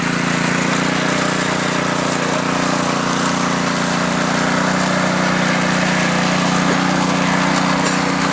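Power trowel's small engine running at a steady speed as it smooths fresh concrete.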